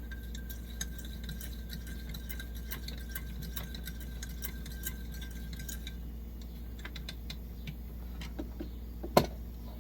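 Coleman 523 stove's fuel tank being hand-pumped, with many small metallic clicks and rattles for about six seconds. One loud knock about nine seconds in.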